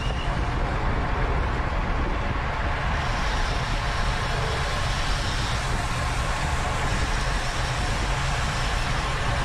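Steady rush of wind over the microphone and road noise from a road bike ridden at race speed.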